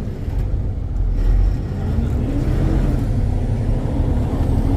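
Freightliner Cascadia semi truck's engine and road noise heard from inside the cab while driving: a steady low rumble with a faint engine tone that rises slightly about two seconds in.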